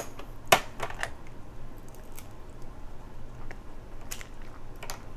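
Crab shell being cracked and picked apart by hand: one sharp crack about half a second in, then scattered fainter clicks and ticks.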